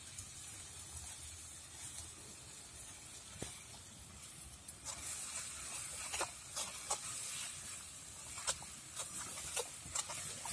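Ground chilli and shallot spice paste frying in a steel wok over a wood fire: a steady sizzling hiss, with the metal spatula scraping and tapping the wok from about five seconds in.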